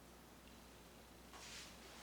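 Near silence: room tone, with a faint rustle near the end.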